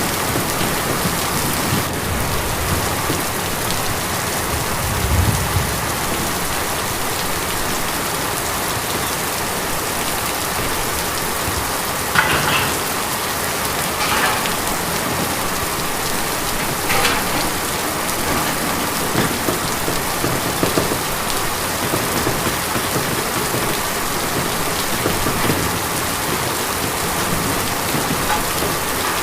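Rain falling steadily on a tin roof, a dense even patter, with a few heavier drops striking louder now and then.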